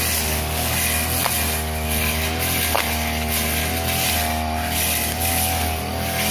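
Two-stroke brush cutter engine running at a steady speed, with two sharp ticks about a second and a half apart.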